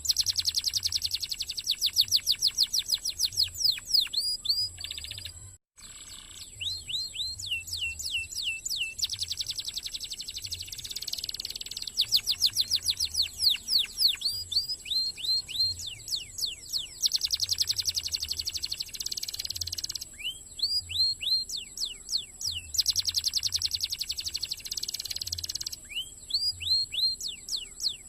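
Domestic canary singing a fast, tightly packed song: runs of rapidly repeated sweeping notes alternating with buzzy trills, broken by a brief dropout about six seconds in.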